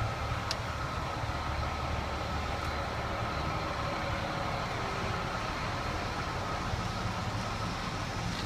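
Heavy truck's Cummins ISX diesel engine idling steadily, a low even rumble. There is a faint click about half a second in.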